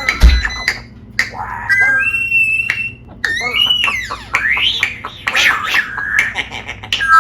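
Pet parrot calling: a string of whistles and squawks that sweep up and down in pitch, with a loud low thump just after the start.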